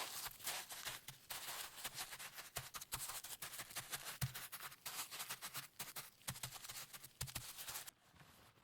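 Salt-crust mixture crunching and scraping in close-up, many small gritty crackles in quick succession that stop about 8 seconds in.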